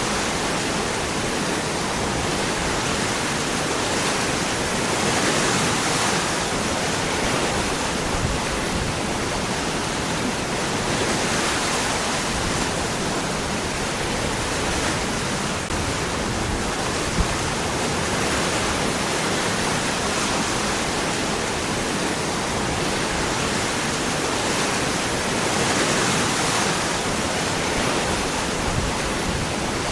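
Waterfall: water pouring steadily over and among rocks, a dense, even rush with slow gentle swells.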